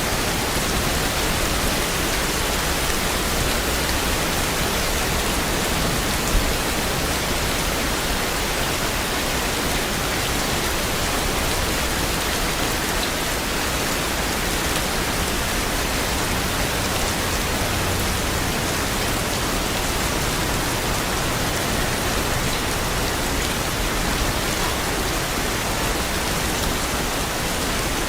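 Steady heavy rain falling on surfaces, a dense even hiss of drops, with a single brief tap about six seconds in.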